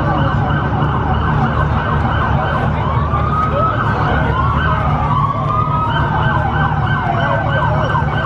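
Police siren sounding in a fast yelp, several falling sweeps a second. Slower wailing sweeps rise and fall across it in the middle. A steady low rumble runs underneath.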